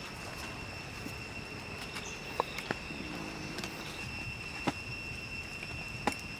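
Steady high-pitched insect drone, with a few sharp clicks and snaps scattered through it.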